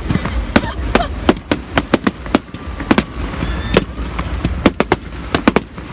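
Fireworks display: a rapid, irregular string of sharp bangs, several a second, over a steady low rumble.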